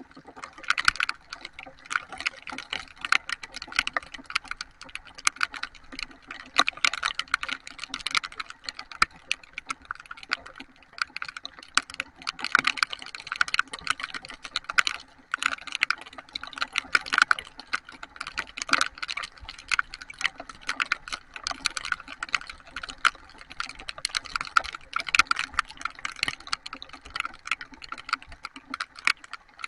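Heavy rain: a dense, irregular patter of drops striking a surface close to the microphone.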